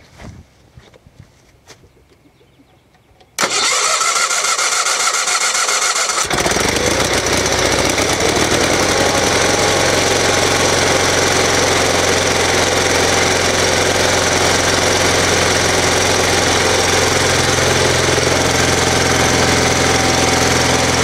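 Case 446 garden tractor's gas engine turned over by the starter for about three seconds, then catching and running steadily. Starting after a non-start traced to no spark, now fixed with a new ignition switch, coil, plugs and plug wires. A few faint clicks come before the cranking.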